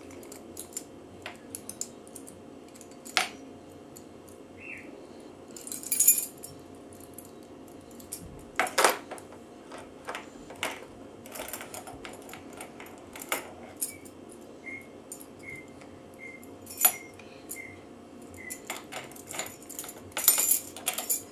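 Keys jangling and clicking in irregular bursts, as if being fumbled with while trying to start an engine, with a few louder rattles and a short run of faint high chirps in the middle.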